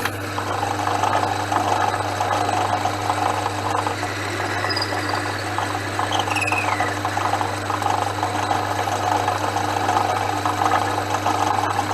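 Portass Model S lathe starting up and running with a steady low motor hum and the rough chatter of a cut, with a brief falling squeal about six seconds in.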